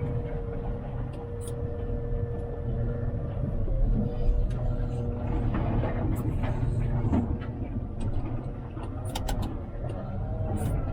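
Volvo L90H wheel loader's diesel engine running at work, a steady low rumble, with a few sharp knocks and clatter scattered through.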